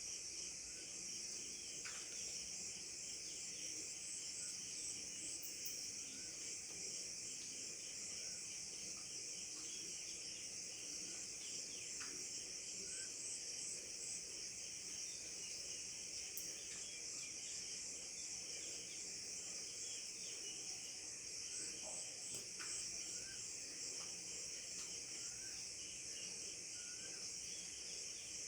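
A steady insect chorus of crickets trilling, a dense, finely pulsing high-pitched drone. Scattered short bird chirps sound over it.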